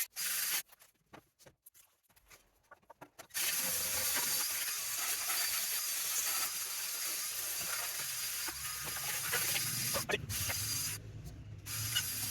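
Long, steady spraying hiss that starts about three seconds in and breaks off briefly near the end.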